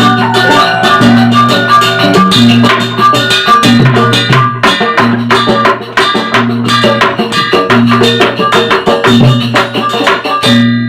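Sasak wayang gamelan ensemble playing a gending: fast, dense percussion clatter over low tones that repeat about once a second. The strokes stop abruptly near the end, leaving metal tones ringing.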